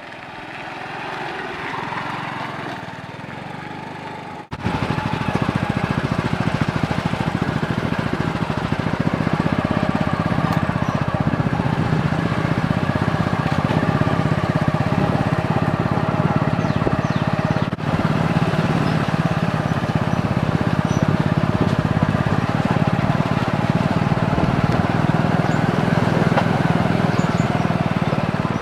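A small vehicle engine running steadily under way, with a rapid even pulse. It starts abruptly about four and a half seconds in, after a quieter stretch.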